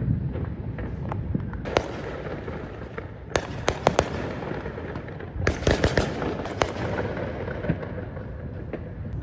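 Fireworks going off in the distance: a steady low rumble of bursts with many sharp cracks and pops, coming in clusters about two, four and six seconds in.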